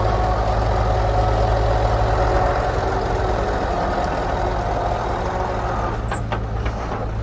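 Engine of an old GMC logging truck (jemusi) running steadily with a deep low hum, easing off slightly toward the end, with a few sharp clicks about six seconds in.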